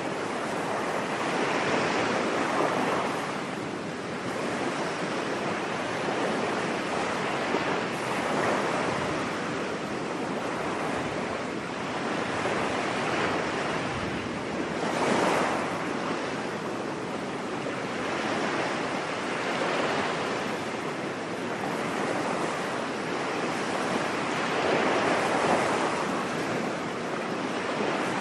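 Ocean waves breaking and washing onto a beach: a steady surf hiss that swells and falls back every few seconds.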